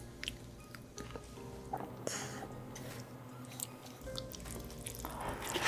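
Close-miked eating sounds, scattered chewing and wet mouth clicks, over faint background music. A loud hissing rush of noise starts near the end.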